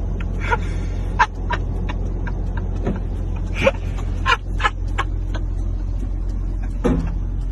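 A motor vehicle's steady low rumble, with about a dozen short, high-pitched chirps scattered over it.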